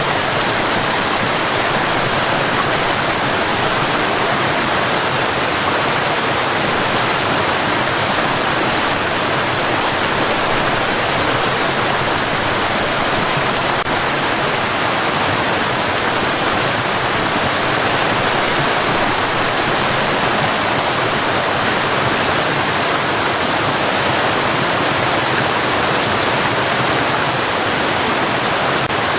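Steady white noise: an even, unchanging hiss, strongest through the middle and upper range with little deep rumble.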